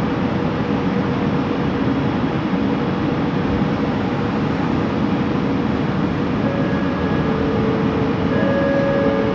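Running noise of a Bombardier Innovia ART 200 linear-induction-motor train heard from inside the car: a steady rumble carrying a faint motor whine. Higher whine tones join in about two-thirds of the way through.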